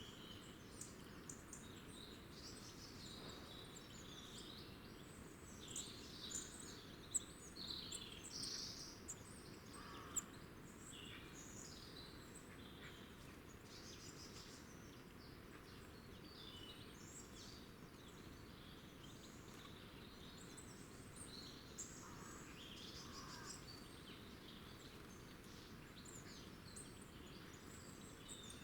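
Small birds chirping, with many short high calls that are busiest and loudest a few seconds in, over a faint steady low background hum.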